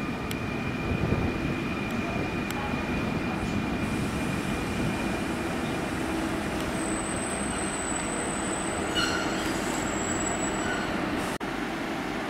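Fertagus double-deck electric train rolling slowly into the platform and braking to a stop, with a thin high-pitched squeal from the wheels or brakes for a few seconds in the second half.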